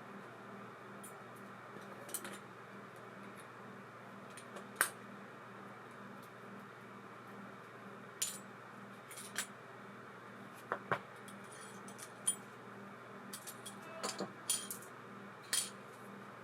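Light metallic clicks and clinks, about a dozen irregularly spaced, from small parts and tools of a baitcasting reel being handled during maintenance work.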